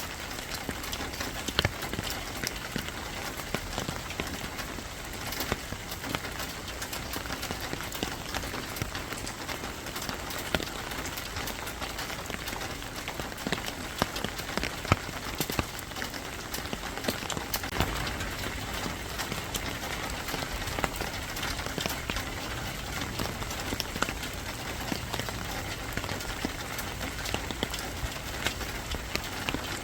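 Steady rain falling, with many irregular sharp ticks of drops striking a hard surface.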